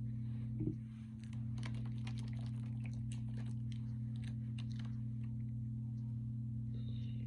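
A run of light, quick clicks and crunches of someone eating, between about a second and a half and five seconds in, over a steady low electrical hum.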